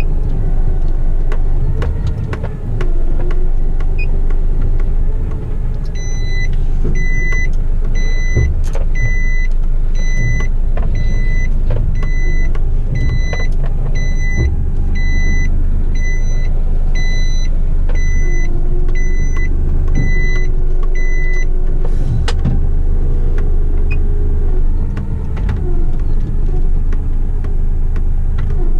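Heavy truck's diesel engine running with a steady low rumble. For about fifteen seconds in the middle, an electronic warning beeper sounds at about one high beep a second, then stops.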